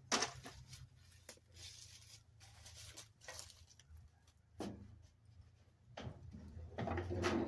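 Irregular knocks, clicks and scraping from hands and tools working on the old truck's hood.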